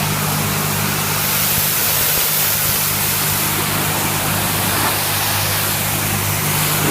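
Car engine running steadily with a low drone, under a steady hiss of water spray.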